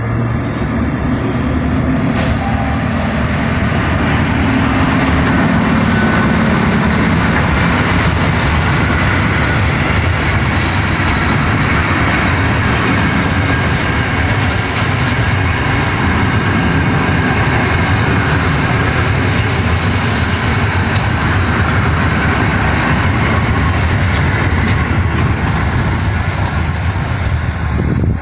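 Train running with a steady, loud rumble and rail noise, and a single click about two seconds in.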